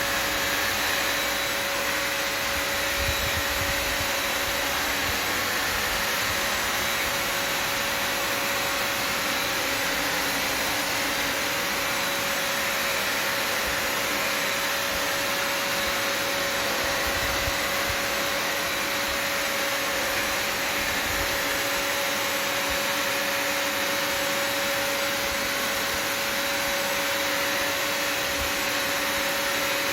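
Bissell Symphony Pet vacuum-and-steam-mop's vacuum motor running steadily, a constant rush of air with a fixed whine, and a few soft low bumps.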